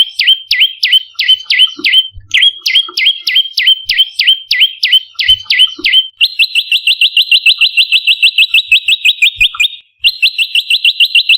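Prenjak lumut calling: a run of sharp, down-slurred chip notes about four a second, with a brief pause near 2 s. About 6 s in it switches to a fast, even-pitched rattling trill of about eight notes a second, which breaks off briefly near the end and resumes.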